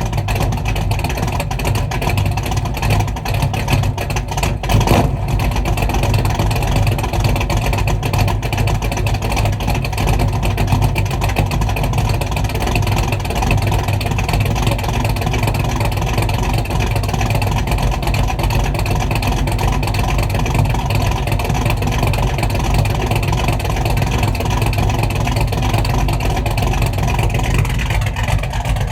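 Mopar car engine running steadily through a new Black Widow exhaust, deep and even, with a brief louder moment about five seconds in.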